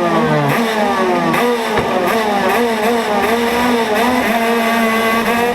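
Rotax Max DD2 125 cc single-cylinder two-stroke kart engine heard onboard, loud: its note falls steadily for about a second and a half as the kart slows, then wavers up and down at part throttle.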